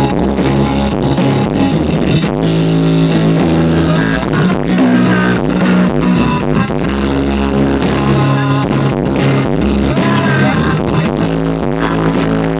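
A song with guitar and a strong bass line, played loud through a large rented PA sound system during a sound check.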